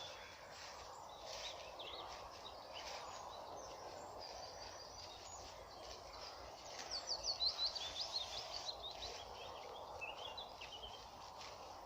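Songbirds singing: short high phrases throughout, with a loud run of rapid repeated notes about seven seconds in and another short phrase near the end, over a steady background hiss.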